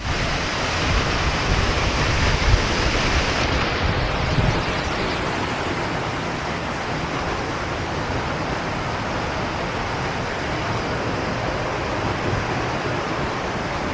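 Steady rush of flowing water, an even hiss with no pattern, slightly louder and brighter for the first few seconds with some low buffeting underneath.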